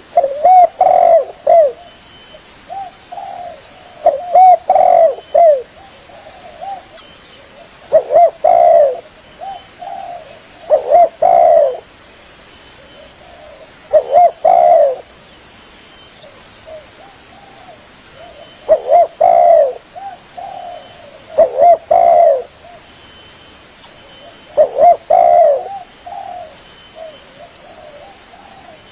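Spotted dove (tekukur) cooing: loud phrases of several bending, rolling coo notes, repeated about every three to five seconds with short pauses between.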